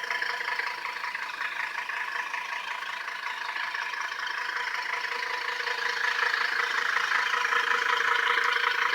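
A car running, with a steady whine over a hiss that gets louder about halfway through.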